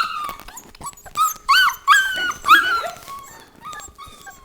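Old English Sheepdog puppies whining and yipping: a run of short, high-pitched cries in the first three seconds, fading to fainter whimpers, with small scuffling clicks.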